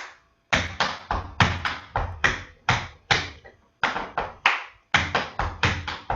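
Tap shoes striking the floor in quick rhythmic runs of sharp taps with short pauses between runs: tap-dance footwork.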